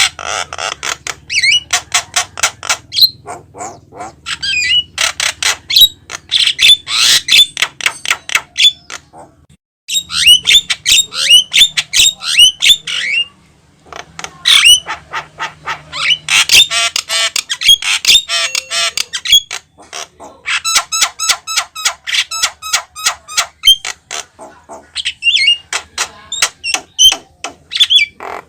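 Javan myna calling vigorously: a fast, jumbled run of harsh squawks, sharp clicks and whistled notes, broken by two short pauses.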